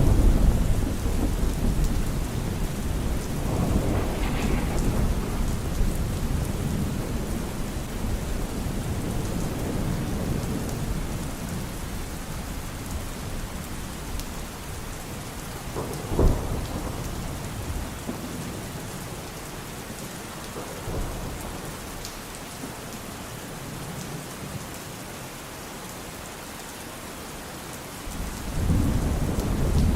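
Thunderstorm: steady rain with rolling thunder. A loud low rumble opens, another comes about four seconds in, a sharp crack about sixteen seconds in, and a fresh rumble near the end after a quieter stretch of rain.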